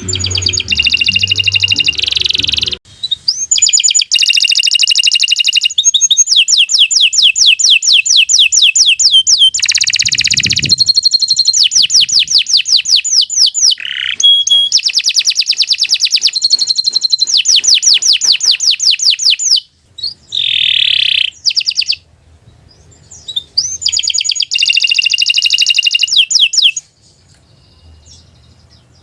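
Domestic canary singing long phrases of rapid, high, repeated-note trills, with brief pauses between phrases. The song stops a couple of seconds before the end.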